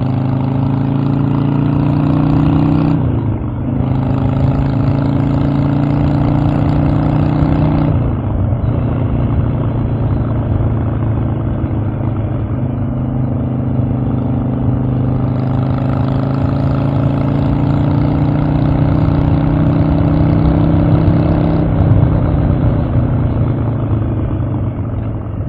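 Harley-Davidson Evolution air-cooled V-twin engine under way, with brief breaks in its pull about three and eight seconds in. It then runs at a lower pitch, climbs again and eases off near the end.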